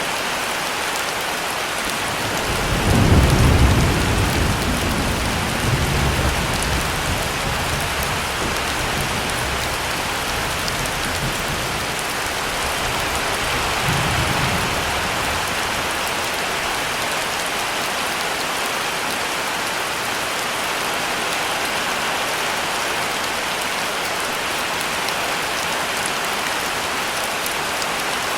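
Heavy rain falling steadily, with a low rumble of thunder about three seconds in that swells and fades over a couple of seconds, then fainter rumbles around six and fourteen seconds in.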